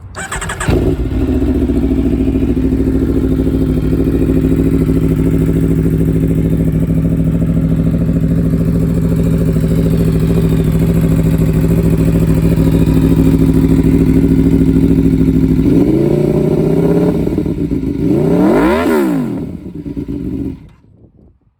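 Aprilia Tuono V4 1100 RR's V4 engine with an aftermarket Arrow exhaust, started within the first second and idling loud and steady. Near the end it is revved twice, the second a sharp blip up and back down, and then switched off.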